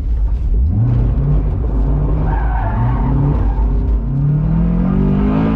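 Honda S2000's four-cylinder engine revving hard as the car is whipped around a turn without traction control, its tyres squealing. The engine pitch climbs about a second in, dips and climbs again a few times, and rises strongly near the end.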